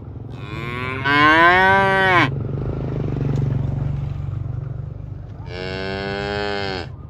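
Cattle mooing: a long, loud moo that rises and then falls in pitch, followed a few seconds later by a second, steadier moo near the end.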